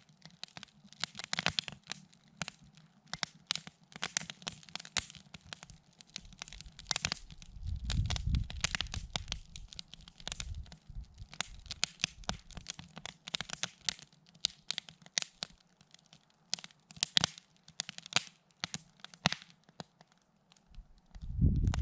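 Campfire crackling, the burning wood snapping and popping in irregular sharp cracks. A low rumble comes in about eight seconds in and again near the end.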